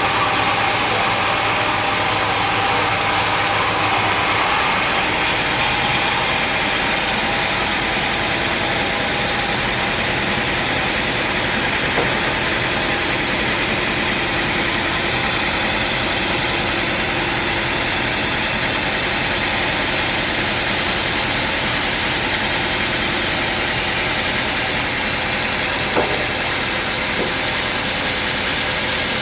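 Sawmill machinery running steadily, an engine-driven hum under a dense hiss. The tone shifts about four to five seconds in, and there are two brief knocks later on.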